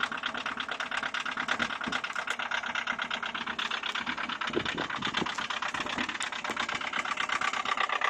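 1984 VW Jetta's 1.6-litre four-cylinder turbodiesel idling cold, with a fast, even diesel clatter.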